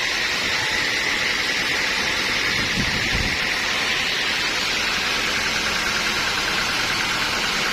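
Sawmill machinery running: a steady, even hiss-like noise that holds at one level throughout.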